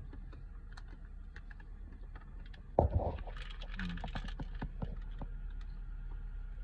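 Someone chewing a tough, dense protein bar close to the microphone: scattered small wet clicks over the steady low road noise of a moving car. There is one sharp, loud bump a little under three seconds in.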